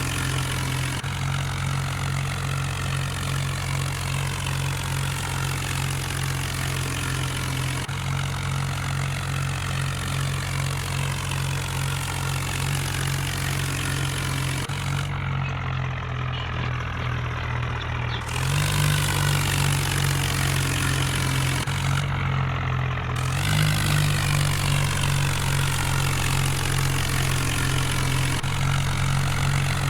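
Tractor engine running steadily at idle, a steady low drone that steps up a little in level twice in the later part.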